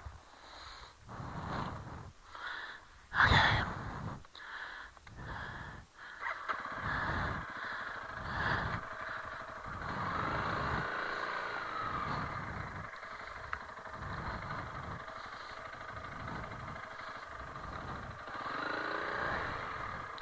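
Honda CRF300L Rally's single-cylinder engine at low speed on a rough dirt track. For the first few seconds it comes in uneven separate pulses, the loudest about three seconds in; after that it runs more steadily, with revs rising and falling.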